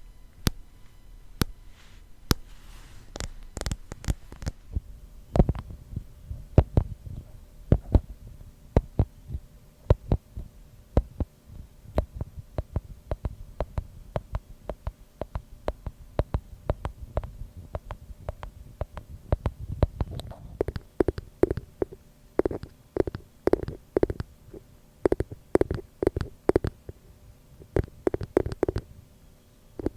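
Fingers tapping a glass container in quick, irregular taps. The early taps are dull and thumping, and from about two-thirds of the way in many taps ring briefly with a glassy tone.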